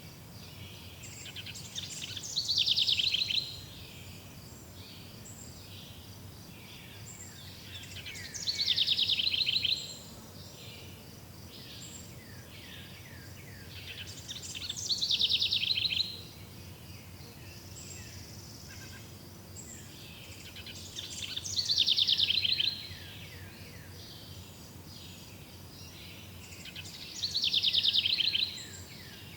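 A songbird singing the same fast, descending trill five times, each song about two seconds long and coming roughly every six seconds. Softer scattered chirping continues in between.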